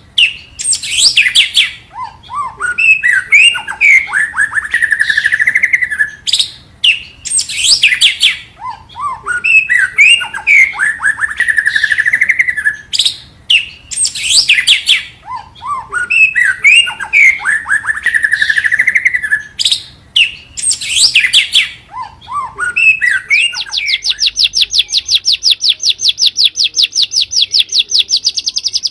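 White-rumped shama song used as a lure recording: the same phrase of rising whistled notes ending in a trill, repeated four times about every six and a half seconds. It ends in a fast, even rattle of high repeated notes over the last five seconds.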